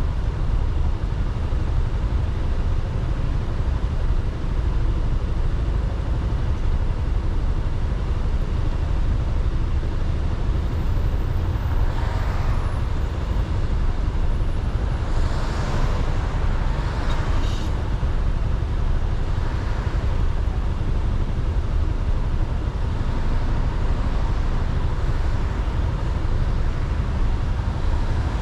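Steady low rumble of wind and road noise from a moving Suzuki Burgman 400 scooter, heard at its mounted action camera, with traffic noise. Several passing vehicles swell up and fade, about twelve seconds in, twice between fifteen and eighteen seconds, and again near the end.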